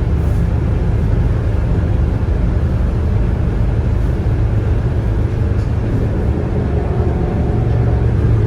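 Volvo B9TL double-deck bus with its 9-litre six-cylinder diesel running, a steady heavy low rumble of engine and drivetrain that grows a little stronger near the end.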